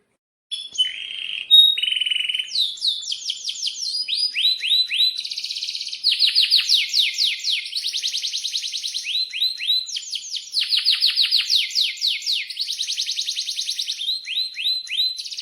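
Domestic canary singing a long, loud song that starts about half a second in. Runs of quick downward-sweeping chirps alternate with fast buzzing rolls, the long-rolling song of a male in full breeding song.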